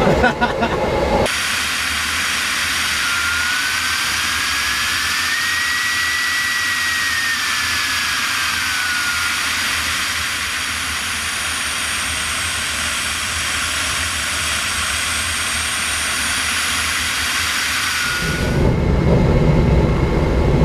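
Steady rushing hiss of airflow over a glider in flight, with a thin whistle-like tone that slowly rises and then falls in pitch. The hiss cuts in suddenly about a second in and stops just as suddenly near the end.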